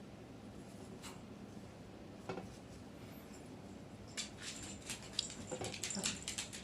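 Cockatiel bathing in a shallow water dish: a couple of single taps, then from about four seconds in a quick run of small splashes and taps.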